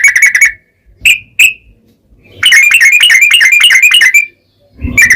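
Yellow-vented bulbul (trucukan) singing loud phrases of fast repeated chattering notes. One phrase ends about half a second in, two short single notes follow, then a longer phrase of about two seconds, and another begins near the end.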